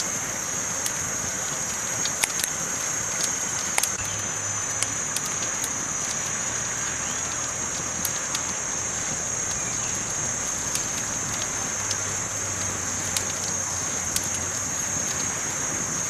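Campfire burning: a steady hiss with sharp crackles and pops scattered irregularly, roughly one every second or two.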